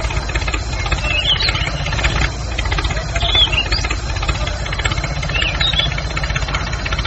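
A motor running steadily with a rapid low pulsing, while birds chirp now and then.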